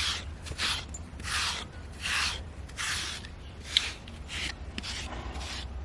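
A stiff brush worked in repeated strokes over a horse's coat, about one stroke every three quarters of a second, with a single sharp click about midway.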